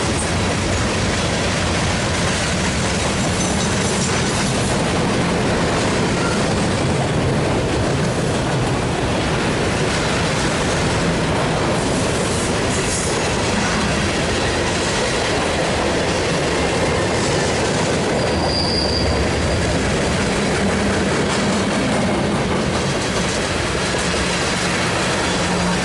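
BNSF mixed freight train rolling past at close range, its cars' steel wheels on the rails making a steady rumble and clatter. A brief high wheel squeal comes about two-thirds of the way through.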